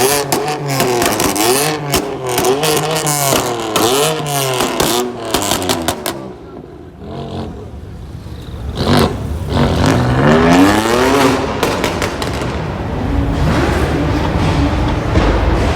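BMW M3/M4 exhaust: the engine is blipped repeatedly, about once a second, each rev rising and falling, with sharp pops and crackles between. It drops quieter about six seconds in, revs up again near the middle, then settles into a steady drone.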